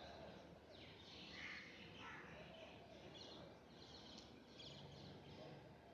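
Near silence: faint background hiss with a few faint, short high chirps from distant birds.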